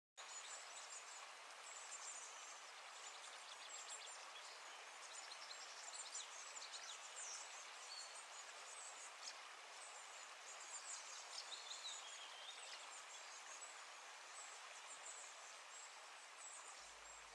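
Faint outdoor ambience of small birds chirping: many quick, high chirps over a steady hiss, with a few short whistled notes near the middle.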